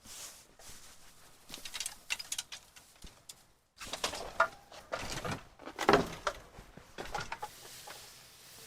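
Hens making soft low clucks, mixed with scattered knocks and clicks.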